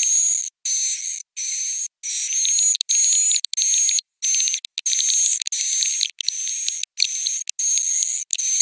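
Edible-nest swiftlet roosting-call lure track (suara inap walet): dense, high-pitched swiftlet twittering with a steady whistling tone running through it. It is played in swiftlet houses to draw the birds in to roost. The sound comes in short chopped segments, broken off by sudden silent gaps several times a second or so.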